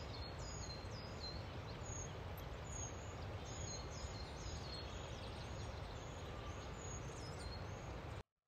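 Birds chirping repeatedly, short high notes that drop in pitch, about two a second, over a steady background noise. The sound cuts off suddenly shortly before the end.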